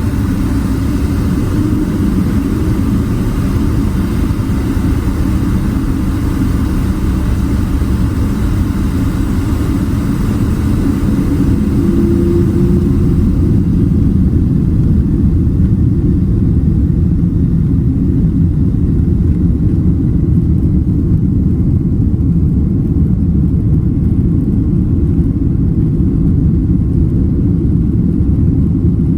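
Steady low rumble of a Boeing 767-300ER's engines and airframe heard from inside the passenger cabin. About halfway through, the higher hiss drops away and the rumble grows a little louder.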